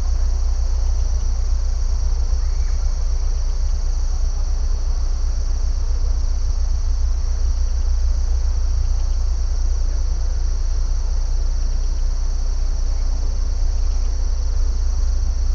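Continuous insect chorus, crickets trilling in a steady high-pitched drone without pauses, over a steady low rumble.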